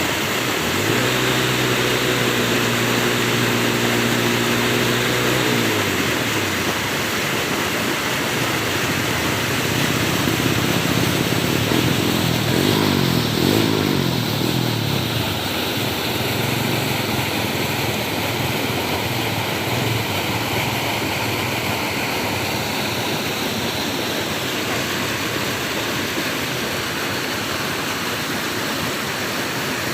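Steady rush of flowing water, with an engine's hum over it: a steady pitched drone for the first few seconds that slides down and fades, then another engine sound rising and falling in pitch around twelve to fourteen seconds in.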